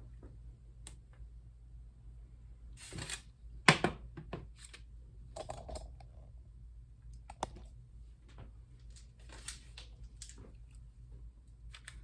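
Scattered light clicks and rustles of hands and a spoon working a sticky chow mein noodle mixture into nests on parchment paper, with one sharper click a little under four seconds in. A low steady hum runs underneath.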